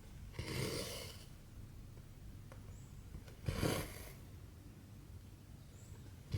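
Cotton embroidery thread drawn through 14-count cross-stitch fabric, making a short rasping swish twice, about three seconds apart.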